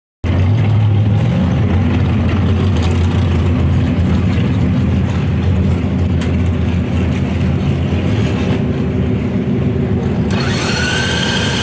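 Racing engine running loud and steady, cutting in abruptly. Near the end a high whine rises in pitch as it revs.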